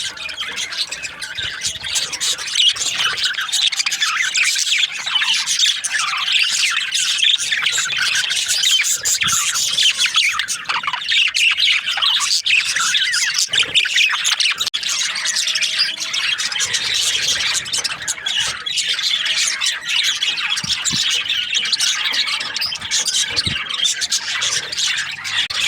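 A colony of budgerigars chattering and squawking continuously, many birds calling over one another in a dense, steady warble.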